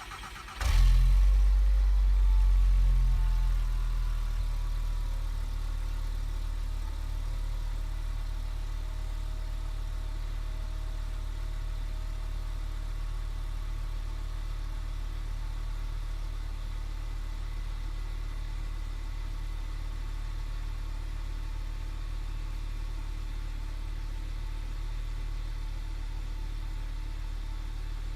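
2008 Volkswagen Jetta's 2.5-litre five-cylinder engine cold-starting below freezing: it catches within the first second and runs at a loud, fast idle, then settles over the next several seconds into a steady idle.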